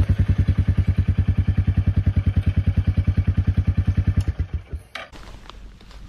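Single-cylinder motorcycle engine idling with a steady, fast beat of exhaust pulses, then switched off about four and a half seconds in, the beat slowing and stopping. A short sharp click follows about a second later.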